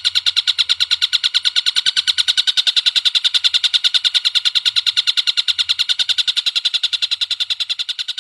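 A bird calling in one long, rapid trill of identical short notes, about ten a second, fading slightly near the end.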